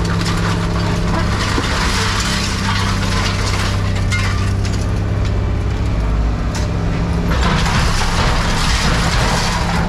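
Heavy machine's diesel engine running steadily under load while scrap metal is crunched and cracked, with irregular crackling and breaking noises over the engine.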